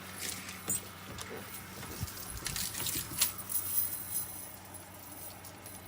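Faint scattered metallic jingling and light clicks over a low steady hum.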